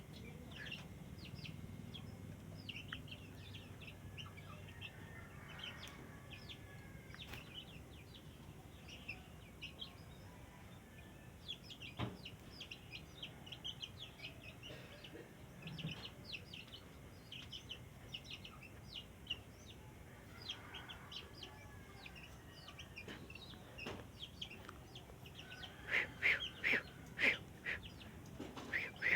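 Yellow-vented bulbul giving short chirping calls, scattered and fairly sparse, with a louder run of calls near the end.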